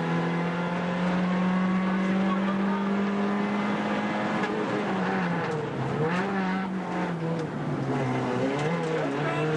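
Inside the cabin of a Suzuki Swift 1.3 rally car at speed: its 1.3-litre four-cylinder engine runs hard at high revs, the pitch climbing slowly for about four seconds. In the second half the revs fall and climb again twice.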